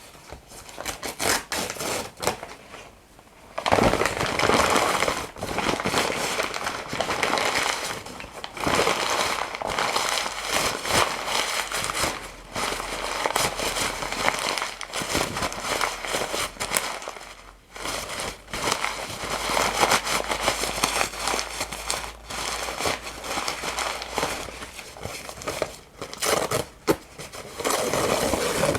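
Paper being crumpled and torn close to the microphone: a dense crackling full of sharp crinkles, quieter and scattered at first, then loud and near-continuous from about four seconds in, with a few brief lulls.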